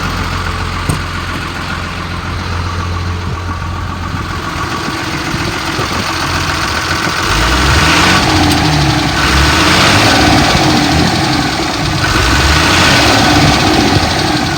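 5.9 litre Cummins inline-six diesel running at idle, then revved up twice in the second half. It idles smoothly and revs up cleanly: an engine in good running order.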